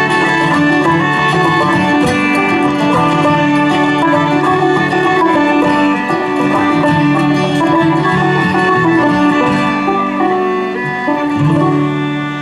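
Bluegrass string band playing an instrumental passage without singing, with banjo prominent over guitar and fiddle.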